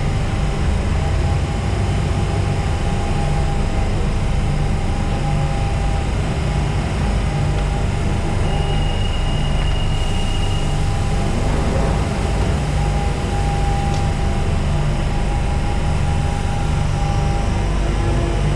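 London Underground Central Line tube train (1992 Tube Stock) running in the station, a loud, steady low rumble with a thin whine that comes and goes. A brief high whistle sounds about halfway.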